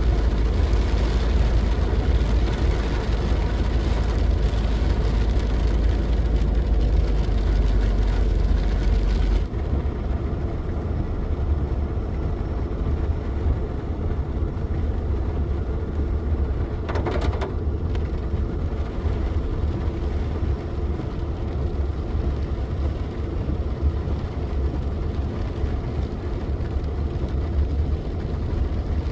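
Steady low rumble and noise of a car on the move, heard from inside. The sound changes abruptly and drops in level about nine seconds in, and there is a brief sharp noise partway through.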